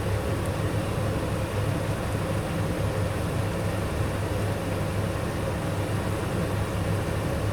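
Steady low hum with an even rushing noise over it, unbroken throughout, from kitchen equipment running while the curry cooks down on a high flame.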